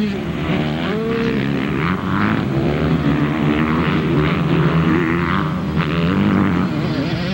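Several motocross motorcycle engines running at once, overlapping, their pitch rising and falling as the riders rev and back off.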